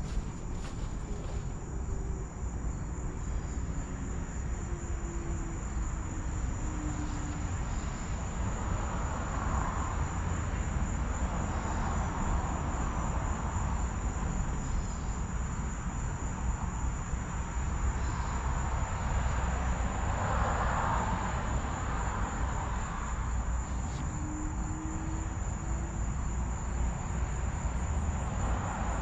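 Carrier Comfort Series air conditioner running steadily, a constant low hum with an even fan rush, at an unchanging level.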